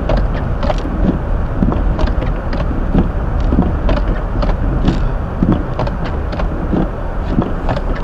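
Hyundai Elantra being driven on a snow-covered road, heard from inside the cabin: a steady rumble of tyres and engine, with frequent short ticks and knocks at irregular intervals.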